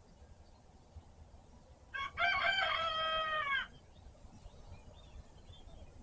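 A rooster crowing once: a short opening note, then a drawn-out call lasting about a second and a half that drops in pitch as it ends. Faint bird chirps sound in the background.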